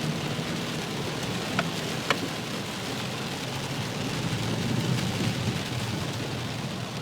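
Steady rush of flash-flood water flowing, with two faint clicks about one and a half and two seconds in.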